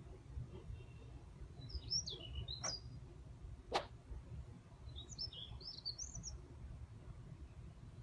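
A songbird singing two short phrases of quick, high warbling notes, about two seconds in and again about five seconds in. A single sharp click comes just before four seconds in, over a steady low rumble.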